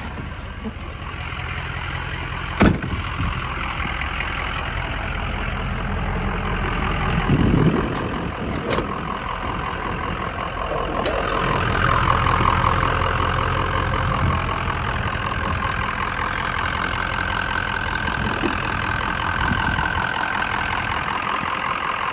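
6.0 Power Stroke V8 turbo-diesel idling steadily, with a sharp click about two and a half seconds in and a couple of fainter clicks later.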